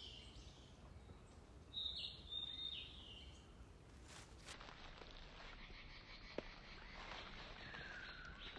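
Birds calling faintly over low outdoor background noise, with a couple of short high calls about two seconds in and a descending call near the end.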